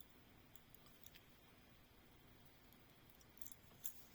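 Near silence, with a few faint clicks near the end as a small die-cast metal toy trailer is handled.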